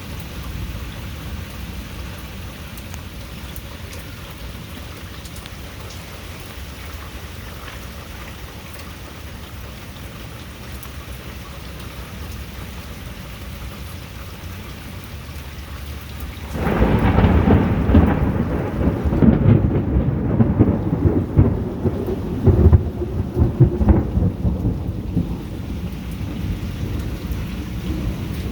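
Steady heavy rain hissing, then about halfway through a loud clap of thunder breaks in suddenly and rolls on as a deep, uneven rumble, slowly fading near the end.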